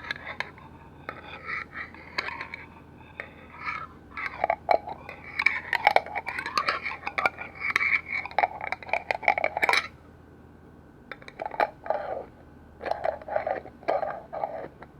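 Quick fingernail tapping and scratching on container lids, a dense run of clicks and scrapes that stops briefly about ten seconds in, then resumes in short clusters.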